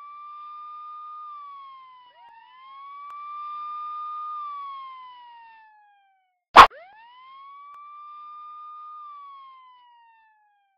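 Electronic wail siren, its pitch rising, holding and then falling slowly in cycles of a few seconds. About two-thirds of the way through, a loud sharp click cuts in and the siren starts again from low and rises.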